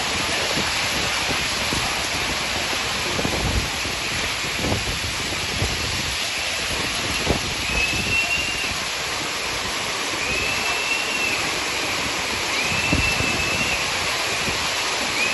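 Hail and rain coming down hard: a steady rush of noise with scattered louder knocks of hailstones striking. From about eight seconds in, a short high tone repeats four times, about every two and a half seconds.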